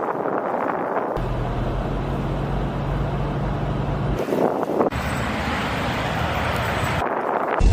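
Outdoor storm-footage sound of vehicles and wind noise, in several short clips with abrupt changes. A steady low engine hum runs through the middle clip.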